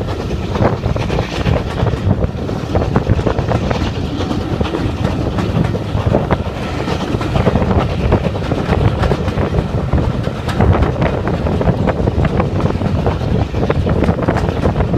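Steam-hauled heritage passenger coach running along the line, a steady rumble with its wheels clicking over the rail joints, heard from an open window.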